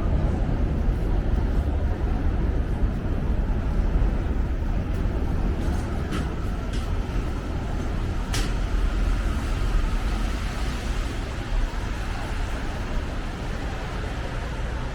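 City street traffic: a steady low rumble of passing cars and buses, with a couple of short sharp clicks about six and eight seconds in.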